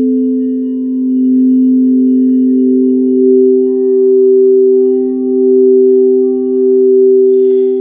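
Singing bowls ringing in long, overlapping sustained tones that swell and ebb, the higher tone dropping slightly in pitch about three seconds in. A brief high rustling shimmer sounds near the end.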